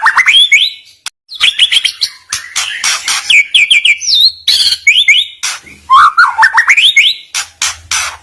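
A songbird singing without pause: repeated runs of quick, rising whistled notes alternating with loud, harsh, scratchy bursts.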